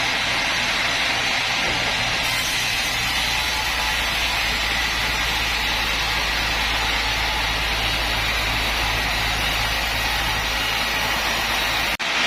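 Sawmill machinery running steadily, a continuous mechanical hiss over a low hum, with a split-second dropout near the end.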